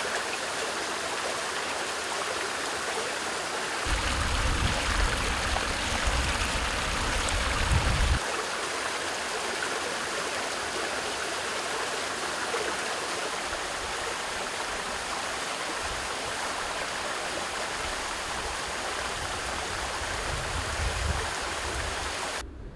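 Fast-flowing water rushing steadily, typical of a swollen stream or floodwater; a deeper rumble joins for a few seconds, about four seconds in.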